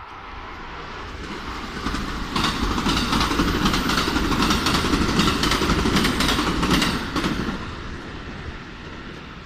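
A train passing close by: its rumble swells over the first couple of seconds, stays loud with a rapid clatter of wheels for about five seconds, then fades away.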